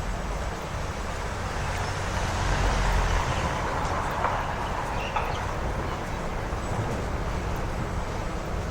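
City street noise with a vehicle passing, growing louder and rumbling about two to four seconds in, then easing back to the steady background.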